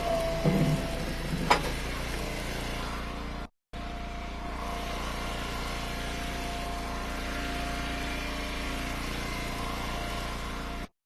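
Engine of a log splitter running steadily, with a sharp knock about a second and a half in; the sound cuts out completely for a moment around three and a half seconds in.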